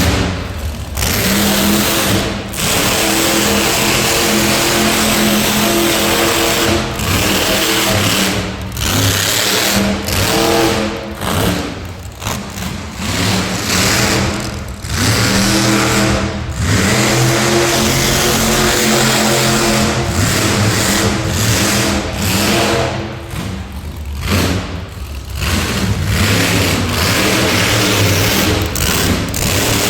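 Monster truck engine revving hard, the throttle opened and lifted again and again, with short drops in sound every few seconds.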